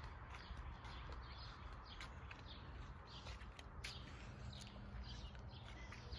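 Birds chirping and singing faintly, short repeated calls, over a steady low outdoor rumble, with a few scattered sharp clicks.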